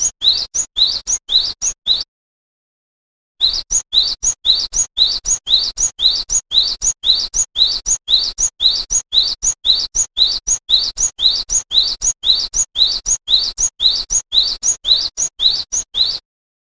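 Glatik wingko songbird chirping: a fast, even run of short, sharply rising high chirps, about three a second. It breaks off abruptly about two seconds in, starts again about a second and a half later, and cuts off shortly before the end.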